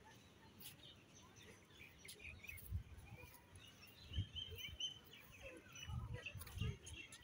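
Faint outdoor birdsong: scattered short chirps and a brief trilled call, with a few low thumps.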